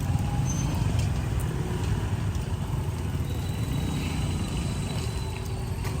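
Steady low rumble of street traffic, motor vehicle engines running, with a faint thin high tone in the middle.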